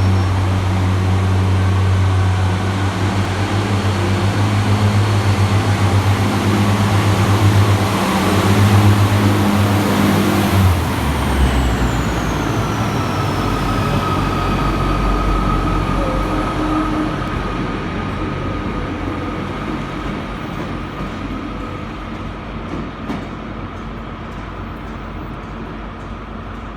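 Class 143 Pacer and Class 150 Sprinter diesel multiple units pulling out of the station, their underfloor diesel engines running under power with a steady low note. The engine note drops away about eleven seconds in, a high whine falls in pitch, and the sound then fades as the train moves off.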